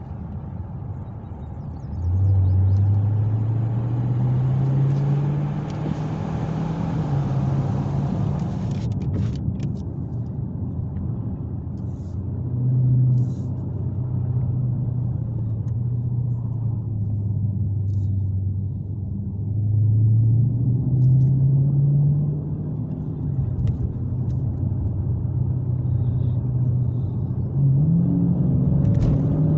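Muscle car engine rumbling, its pitch climbing and dropping back several times as it is revved and driven.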